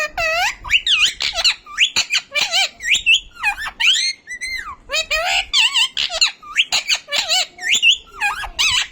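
Pet parrot chattering, a quick run of squeaky squawks and whistled chirps that swoop up and down in pitch, with only short pauses between calls.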